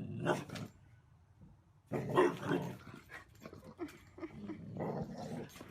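A dog vocalising in three short bursts, about two seconds apart.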